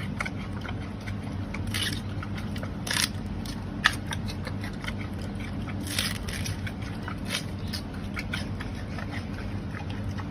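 Giant panda biting and chewing bamboo shoots: irregular crisp crunches and snaps, one every second or so, over a steady low hum.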